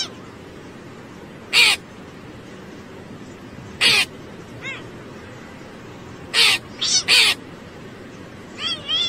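A crow cawing: short harsh caws a couple of seconds apart, then a quicker run of calls near the end, over a steady background hiss.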